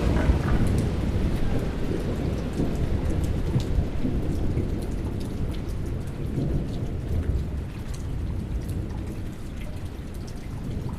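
Thunderstorm: a long rumble of thunder over steady rain, with scattered drop ticks, slowly dying away.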